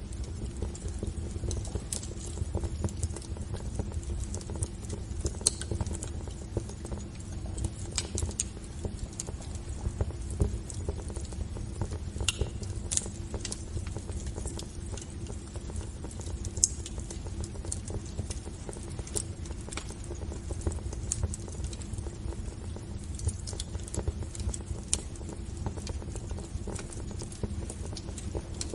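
Wood fire burning in a fireplace, crackling with frequent irregular pops and snaps over a low steady rumble.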